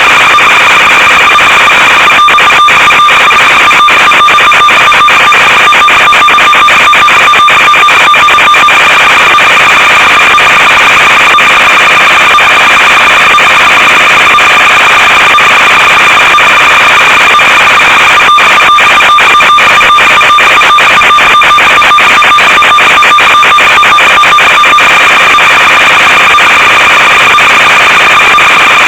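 Loud steady electronic buzz and hiss with a high whine and its overtone, from the audio channel of an analog FPV video link that carries interference rather than the plane's sound; stretches of dense crackling clicks come in about two seconds in and again past the middle.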